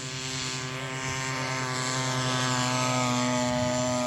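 Small model-aircraft engine on a radio-control scale Fieseler Storch running steadily with the propeller turning, getting louder about a second in.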